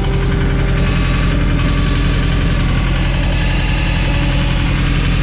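Case/Davis D100 backhoe's engine idling steadily and loudly.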